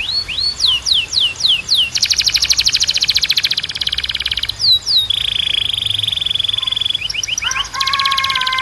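Domestic canary singing a run of song phrases: a string of quick down-slurred whistles, then a fast high trill for about two and a half seconds, a lower buzzing roll, and near the end a long held low whistle.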